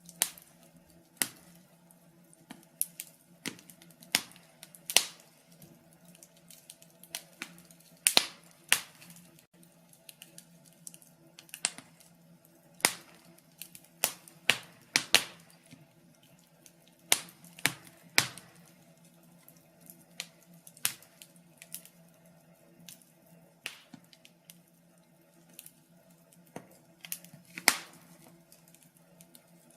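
Wood fire crackling: irregular sharp pops and snaps, about one or two a second with some louder ones, over a faint steady hum.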